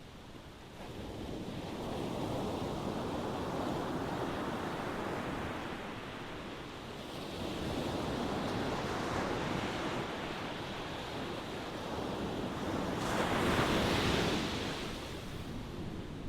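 Ocean waves surging and washing in a steady wash of surf that swells and eases. It builds about a second in, rises again midway, and is loudest and brightest near the end as a larger wave breaks, then subsides.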